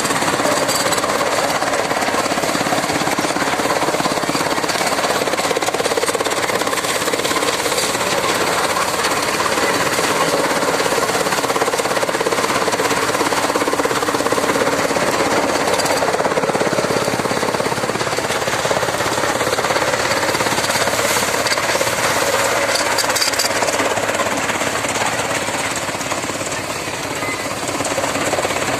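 Tractor PTO-driven chaff cutter running, a loud, steady, rapid clatter with the tractor engine underneath, easing off slightly near the end.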